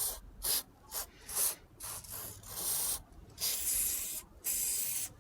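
Aerosol can of Würth HHS Grease, a Teflon door-hinge lubricant, sprayed in a series of short hissing bursts onto a car door check strap and hinge. The later bursts are longer, about a second each.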